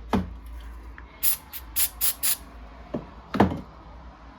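Four short hisses of aerosol lubricant sprayed onto a stiff laptop hinge, between two knocks, one just at the start and a louder one about three and a half seconds in.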